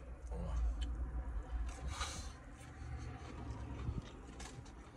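A person biting into and chewing a fried chicken tender: faint wet mouth sounds and small clicks, with a short crunchy noise about two seconds in. A steady low rumble runs underneath.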